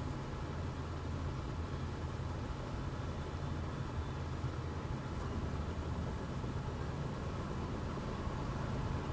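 Steady low rumble of a running engine, even throughout with no clear changes.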